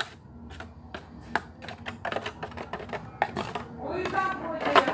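Spoon clicking and tapping against a bowl in quick, irregular strokes as soap-and-salt slime is stirred. A child's voice comes in near the end.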